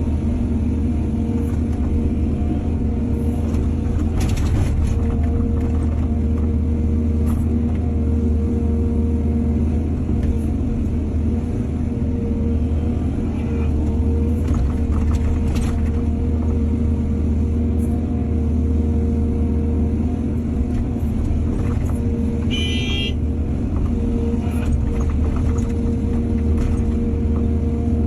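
Heavy diesel excavator engine running steadily under load as it digs and loads soil, with scattered knocks and clanks. There is one brief high-pitched squeal about three-quarters of the way through.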